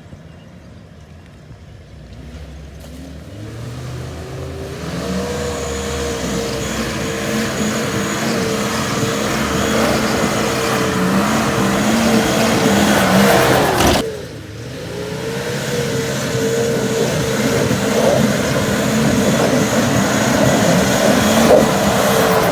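Turbocharged 4x4's engine working hard, revs and load building steadily for about twelve seconds. Near fourteen seconds in it drops away sharply as the throttle is lifted, then builds again.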